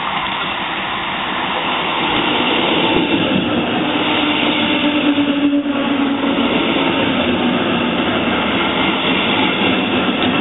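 DB Regio double-deck push-pull train rolling past close by, with its electric locomotive pushing at the rear: a steady rumble of wheels on rail that grows louder over the first two seconds as the coaches come alongside.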